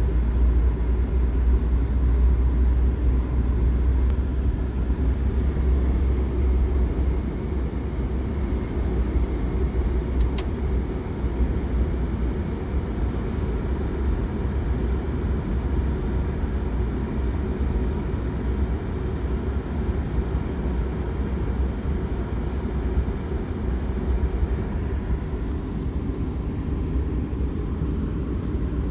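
Steady low rumble of a car driving along a road, engine and tyre noise running evenly without let-up.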